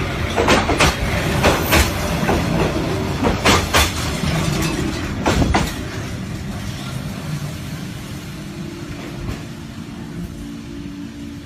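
Passenger train wheels clacking over rail joints, mostly in pairs, over the steady rumble of the running train. The clacks stop about five and a half seconds in, and the rumble then fades gradually.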